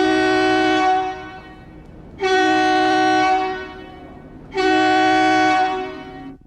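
Train air horn sounding three blasts of about a second each, with a pause of about a second between them, each blast a chord of several steady tones.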